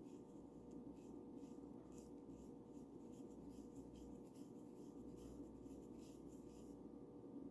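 Paintbrush brushing paint onto a bird house: a run of quick, faint brush strokes that stop shortly before the end, over a steady low hum.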